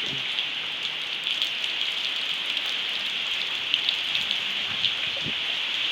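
Steady rain falling, a dense even hiss with many scattered taps of individual drops.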